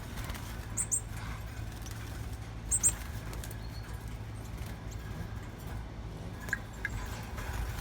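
Small caged birds giving two short, high chirps, about a second in and again near three seconds, over a steady low rumble.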